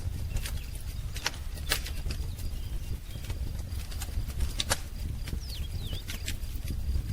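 Wood fire crackling, with irregular sharp pops and snaps over a low steady rumble. A few faint bird chirps come in about five and a half seconds in.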